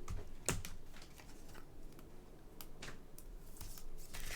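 Topps Chrome trading cards being flipped through and slid against each other by hand: a scatter of light clicks and short rustles.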